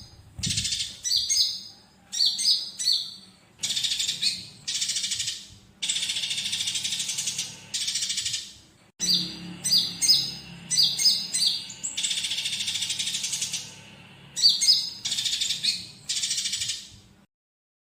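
Konin songbird chattering in repeated bursts of rapid, high chirping phrases with short gaps between them. It stops abruptly about 17 seconds in as the recording falls silent.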